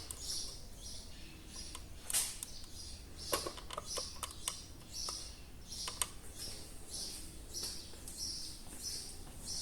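A small bird chirping in quick, even repeats, about two high chirps a second, with a few sharp clicks from a zip tie's excess being cut off and handled.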